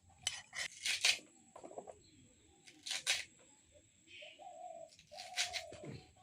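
Short, sharp scraping and chopping strokes of a blade cutting fish, in three clusters: about a second in, around three seconds, and about five and a half seconds in. A bird calls twice in the second half; the second call drops sharply in pitch at the end.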